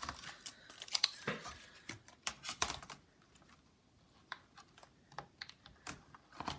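Irregular plastic clicks and taps of a laptop keyboard being pressed down and seated into the laptop's case, busiest in the first three seconds.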